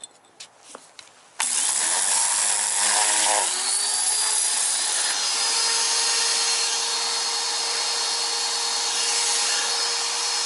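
Ryobi pressure washer starting suddenly about a second and a half in, then running steadily with its spray hissing. A motor tone rises briefly as it comes up to speed, then holds.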